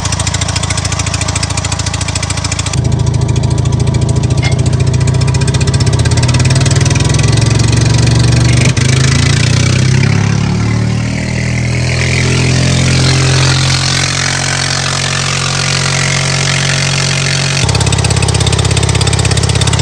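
Bobcat 732 skid steer's gasoline engine running, its speed wandering up and down through the middle of the stretch before settling back to a steady run; the governor belt is loose.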